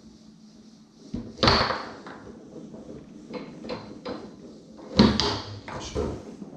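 Tornado foosball table in play: the ball struck by the players' men and knocking against the table, a run of sharp wooden-sounding knocks and clacks. The two loudest knocks come about a second and a half in and about five seconds in.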